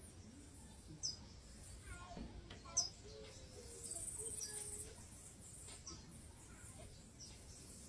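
Small birds giving a few short, high chirps, the loudest about three seconds in, with a brief high buzz about four seconds in.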